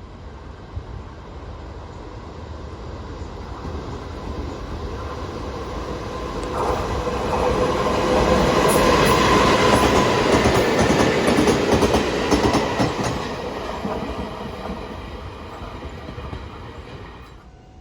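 A train passing: it grows louder, runs loudest for several seconds with a quick clatter of wheels over the rail joints, then fades away and cuts off near the end.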